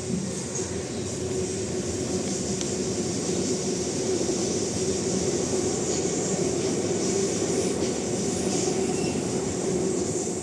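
Sydney suburban electric train running past the station, a steady rumble with a constant hum.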